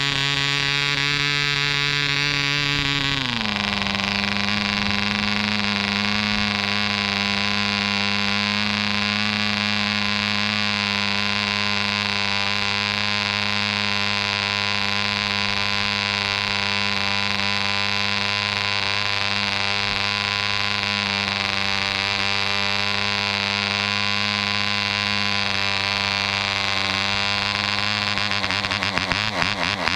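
Webra 1.5cc model airplane diesel engine running. About three seconds in it slows to a lower, steady speed, which it holds.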